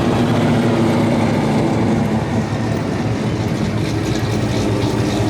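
Car engines running at low revs, a loud, steady drone.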